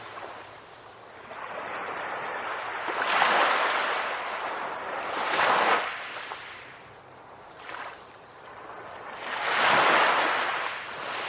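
Ocean surf breaking and washing onto a beach. The rush of the waves swells and fades several times, loudest about ten seconds in.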